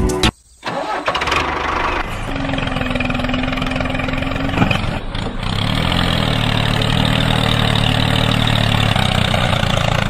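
Tractor engine starting up just under a second in, then running steadily.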